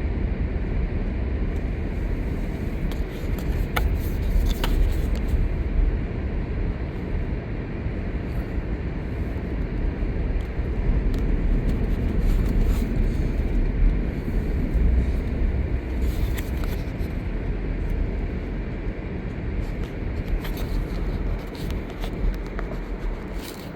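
Car driving slowly on snow- and ice-covered streets, heard from inside the cabin: a steady low rumble of engine and tyres, with a couple of faint clicks about four seconds in.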